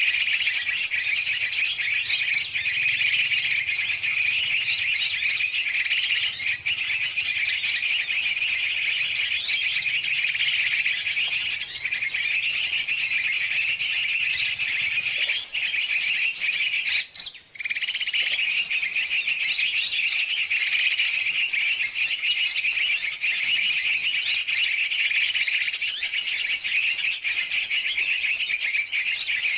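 Bird-lure recording for yellow-vented bulbuls: a dense, noisy chorus of many birds chirping and twittering rapidly and without pause. It drops out for a split second just past halfway, then carries on.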